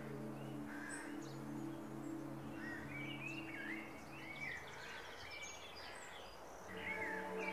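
Birds singing, short whistled phrases that rise and fall, over a soft sustained ambient music chord. The chord fades out about halfway and a new chord comes in near the end.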